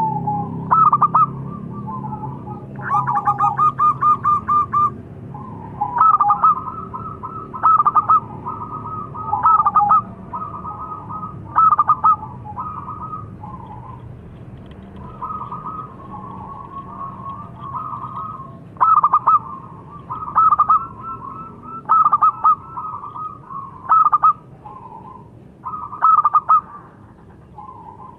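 Zebra dove (perkutut) cooing: short pitched phrases repeated over and over, loudest in bursts about every two seconds, with a quieter stretch in the middle.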